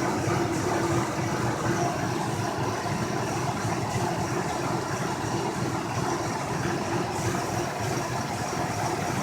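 2004 Ford F-150 Heritage's 4.2-litre V6 idling steadily.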